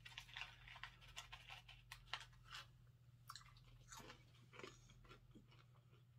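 Faint, irregular crunching of a person chewing a crisp corn-and-cheese snack with small seed-like pieces.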